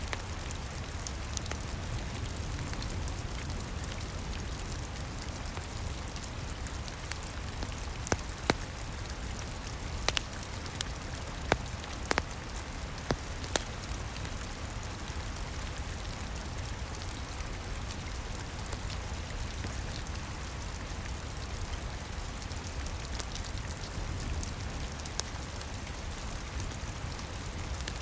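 Steady rain falling on a roof, an even hiss over a low rumble, with the sharp crackles and pops of a wood fire in a fireplace, a handful of them clustered in the middle.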